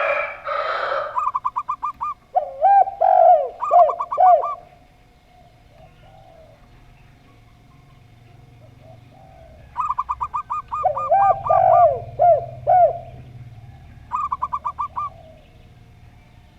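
Zebra dove (perkutut) and spotted dove (derkuku) cooing in two bouts: quick staccato runs of trilled notes and lower, arched coos. A rooster's crow ends about a second in.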